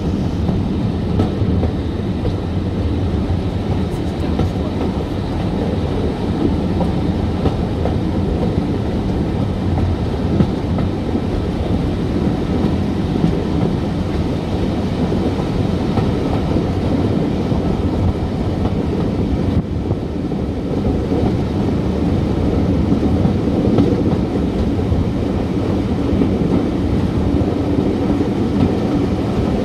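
Heritage train running steadily along the line: a continuous low rumble of wheels on rail with the clickety-clack of rail joints.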